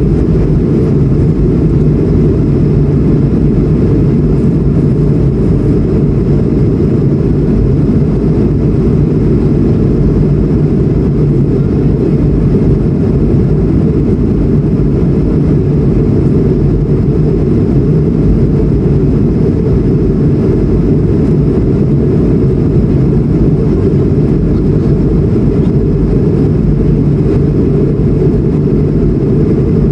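Steady, unchanging low roar of an Airbus A220-100's Pratt & Whitney PW1500G geared turbofans and rushing air, heard inside the passenger cabin.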